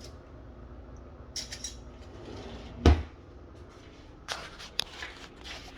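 Light clicks and knocks of household objects being handled, with one heavy thump about three seconds in.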